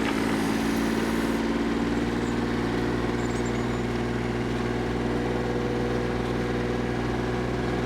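An engine idling at a constant speed: an even, low hum that does not rise or fall.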